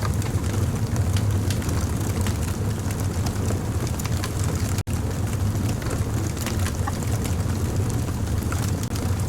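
Fire crackling, with many small sharp pops over a steady low rumble; the sound cuts out for an instant about halfway through.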